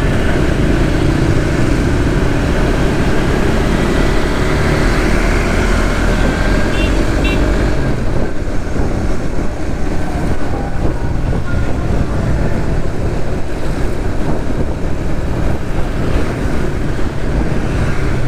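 Suzuki GSX-S150 motorcycle's single-cylinder engine running steadily while riding in city traffic, with loud road noise. A couple of brief high chirps come about seven seconds in.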